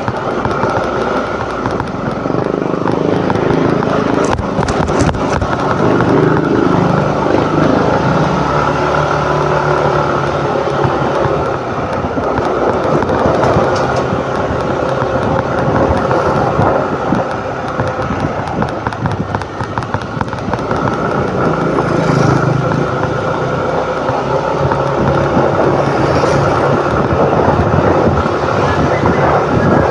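Motor scooter engine running while under way, its note drifting up and down with speed over steady road and wind noise.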